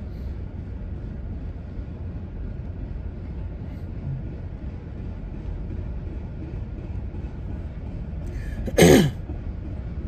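Steady low rumble of a freight train of autorack cars rolling past. Near the end, one short, loud human burst like a sneeze, falling in pitch, stands out over it.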